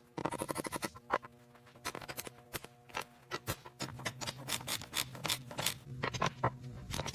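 Metal parts of a gearbox being fitted together: many quick sharp clicks and scrapes, irregular and close together, over a steady low hum.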